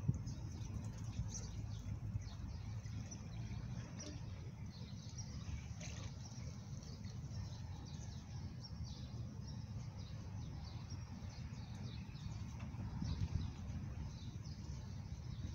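Scattered high bird chirps over a steady low rumble.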